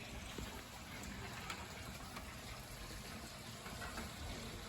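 A faint, steady rushing noise with a few light clicks.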